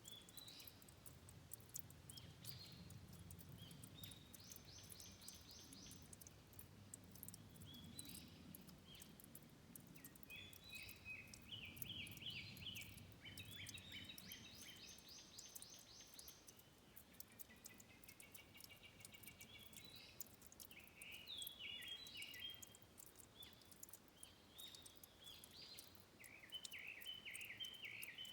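Small songbirds singing faintly, with repeated phrases of rapid high notes and trills. A faint low trickle of water runs underneath.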